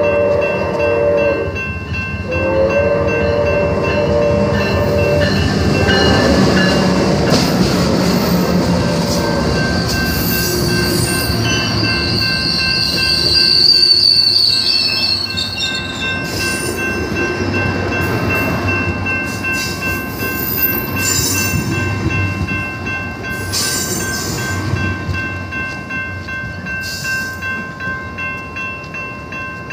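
A train horn sounds two blasts, then the train rolls past with a dense rumble of wheels on rail. A high wheel squeal rises in the middle, and the sound fades slowly as the train moves away.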